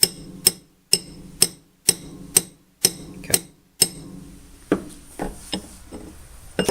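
A hammer striking metal in steady blows about twice a second, each blow ringing briefly. The blows stop about four seconds in, followed by a few lighter, uneven knocks.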